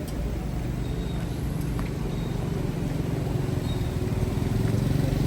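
Motor vehicle engines running in slow traffic, a low engine drone that grows louder toward the end as a vehicle draws closer.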